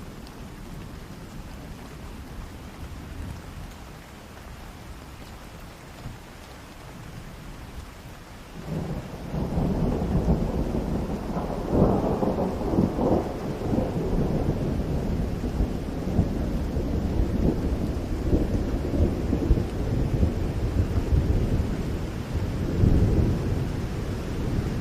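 Steady rain with thunder: a low rolling rumble builds up about nine seconds in and carries on loudly, crackling and peaking around twelve seconds and again near the end.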